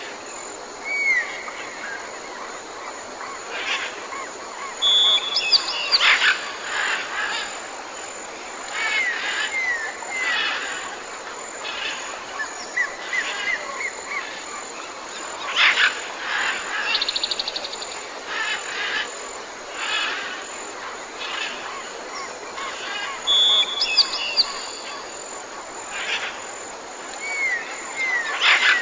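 Birdsong ambience: several birds chirping, whistling and giving sharp calls over a steady outdoor hiss. The same run of calls comes round again about two-thirds of the way through, as in a looped recording.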